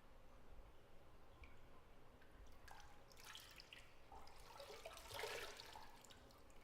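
Faint bathwater splashing and dripping in a tub, a cluster of small splashes and drips starting about two and a half seconds in and loudest a little after five seconds.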